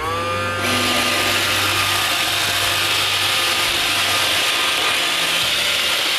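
iRobot Roomba 530 robot vacuum starting a cleaning run. Its motors spin up with a rising whine in the first half-second, then the vacuum and brushes run with a steady whir.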